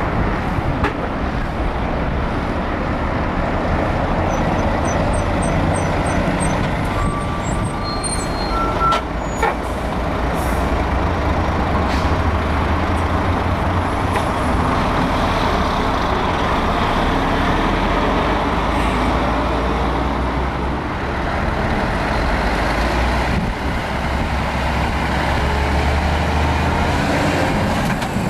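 Heavy diesel trucks running close by, a deep steady engine drone throughout, with a few short clicks and hisses.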